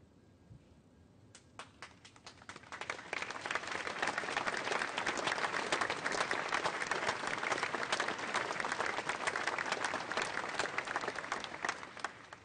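An audience applauding in a hall: a few scattered claps build into steady, dense applause after about three seconds, then die away near the end.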